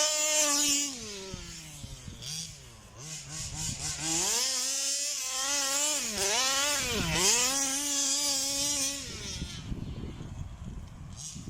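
Zenoah G320 two-stroke engine of a 1/5-scale Rovan Baja RC buggy with a big bore exhaust, revving hard and easing off. It is high-pitched at first and drops about a second in. It climbs again around four seconds, dips sharply twice near six and seven seconds, and falls away after about nine seconds.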